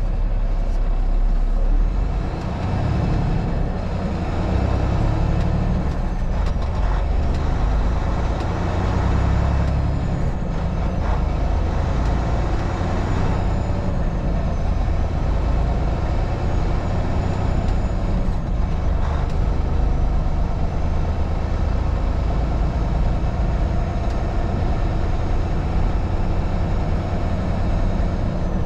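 Steady engine drone and road noise of a moving vehicle, heaviest in the low end, with a faint wavering high whine over it.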